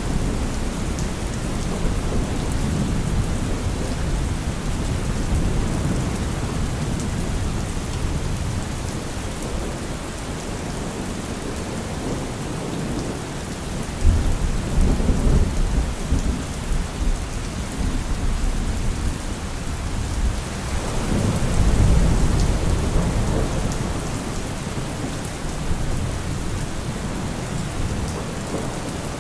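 Steady heavy rain with rolling thunder. A sudden thunderclap about halfway through, then a longer rumble that builds a few seconds later.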